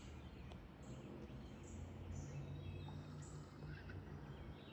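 Faint outdoor ambience of birds chirping: short, high-pitched notes repeating irregularly over a steady low hum.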